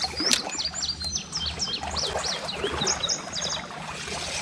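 A songbird singing a run of quick, sharp high notes that sweep in pitch, ending in a fast trill about three seconds in.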